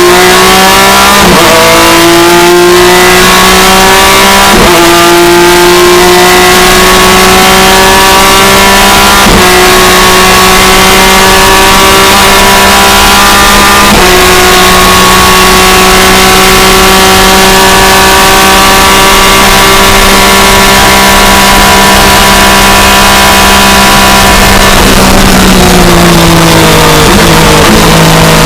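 BMW E36 M3 IMSA GT race car's six-cylinder engine at full throttle, heard from inside the cockpit. The pitch climbs and drops sharply at each of four quick upshifts, then rises slowly through a long flat-out pull, and falls near the end as the car slows.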